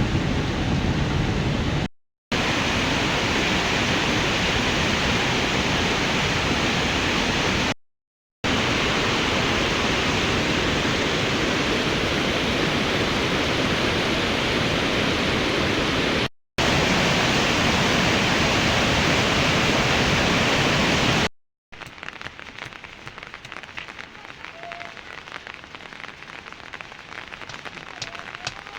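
Heavy rain pouring down in a steady rush, cut off briefly three times. About twenty seconds in it gives way to a softer patter with scattered drips.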